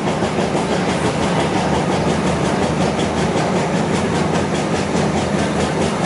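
Suburban passenger train running at speed, heard from inside the carriage: a steady rumble from the running gear with a rapid, even rattle.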